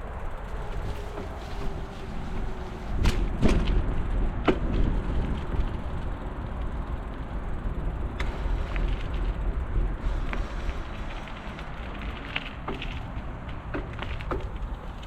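Bicycle being ridden along a rough path: a steady noisy rumble from the tyres and wind with a scattered crackle, and a few sharp knocks or rattles about three to four and a half seconds in.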